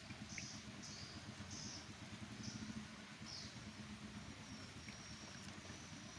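Steady rain falling, faint, with a low hum under it. Short high chirps of a small animal come several times in the first few seconds, and a thin high note sounds on and off later.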